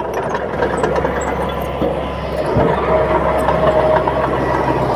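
Crawler bulldozer's diesel engine running steadily, with a single low thump about two and a half seconds in.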